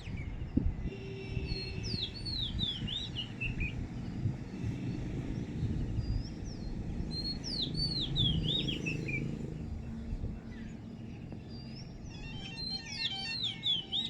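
A small songbird singing three phrases, each a quick run of whistled notes that step down in pitch, over a low rumble with scattered knocks.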